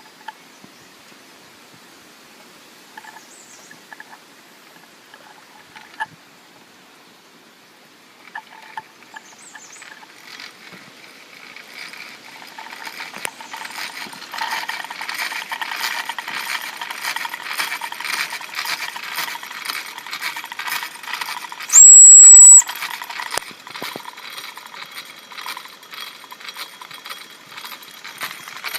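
Wilesco D405 toy live-steam traction engine running: a few faint clicks at first, then from about ten seconds in a rapid metallic chuffing and rattling that builds up and keeps on. About two-thirds of the way through comes one short, very high, loud whistle blast from its steam whistle.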